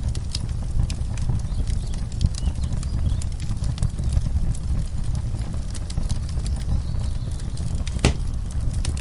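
Wood fire in a fireplace crackling, with irregular sharp pops and snaps over a steady low rumble, and one louder crack about eight seconds in.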